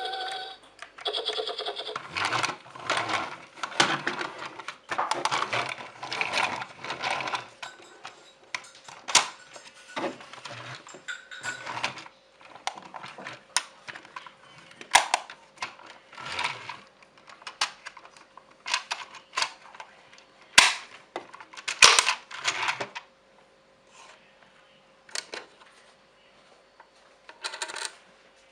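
Irregular clicks, knocks and rattles of small hard plastic pieces being handled, busiest in the first few seconds and thinning out later, with a few sharper knocks around the middle.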